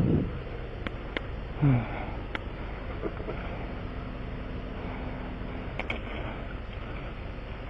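A few sharp clicks and knocks of hand tools during a tire patch job, over a steady low running hum.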